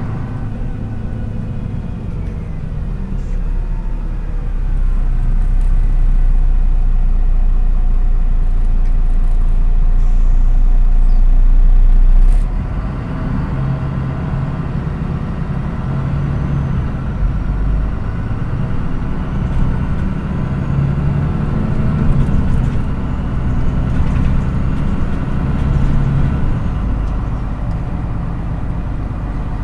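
MAN NÜ 313 bus's diesel engine heard from inside the bus while driving. It pulls with a deep rumble that grows louder for about twelve seconds, falls off suddenly, then runs steadily at a lower level.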